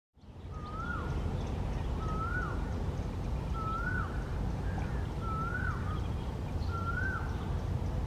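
A bird repeats a short whistled call five times, about every second and a half, each one rising briefly and then sliding down in pitch, over a steady low rumble.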